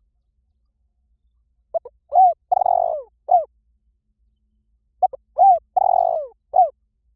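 Spotted dove cooing its lure call: two identical phrases about three seconds apart. Each phrase is a quick double note, a coo, a longer burry coo and a short final coo, each note falling in pitch.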